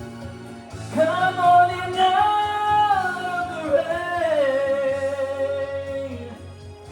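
Music: a vocalist holds one long wordless note over the band's accompaniment, sliding down in pitch about halfway through and letting it go about six seconds in.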